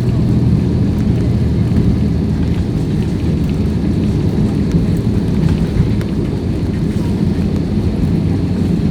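Airliner cabin noise: the steady low rumble of the engines and airflow heard from inside the passenger cabin, with a faint thin whine above it.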